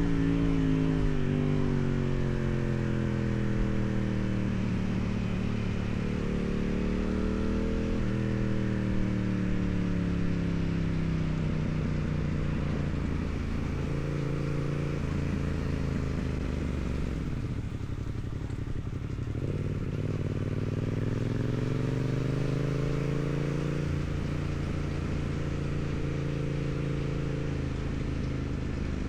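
2016 Yamaha MT-07's parallel-twin engine on its stock exhaust, ridden through the gears. The engine note drops at the start, then climbs and falls several times. It sinks to low revs a little past halfway before pulling up again.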